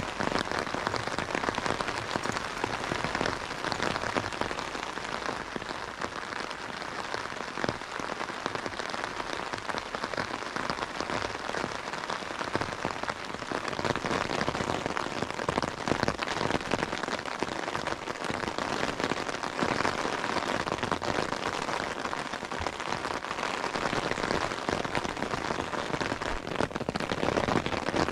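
Steady rain falling, a dense hiss of many small drop hits with no let-up.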